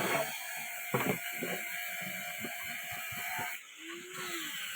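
Blacksmith's hammer striking metal: a few irregular blows, the strongest about a second in, over a steady hiss that stops about three and a half seconds in.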